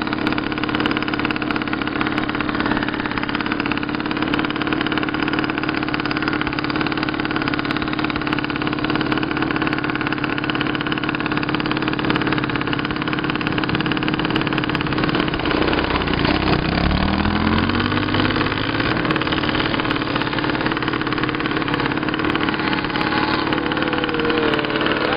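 Trail motorcycle engine running steadily while riding along a dirt track. About two-thirds of the way through, the engine note dips and then climbs again.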